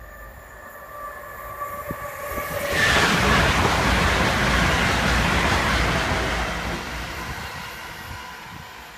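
Passenger train passing at speed over a level crossing: a loud rush of wheel and air noise rises sharply about three seconds in, holds for a few seconds, then fades away.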